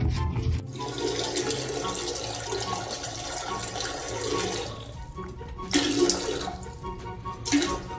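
Rushing, splashing water noise, with background music underneath. The rush stops about five seconds in and is followed by two shorter bursts.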